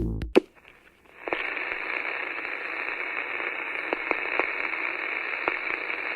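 Electronic music cuts off at the start. About a second later a steady radio-static hiss begins, with occasional crackling clicks.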